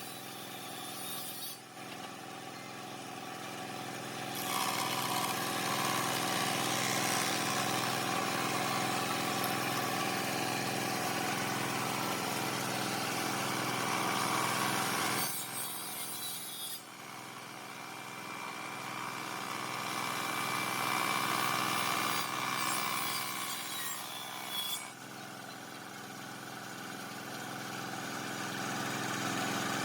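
A power tool's motor running steadily, cutting into wood in long passes of several seconds each.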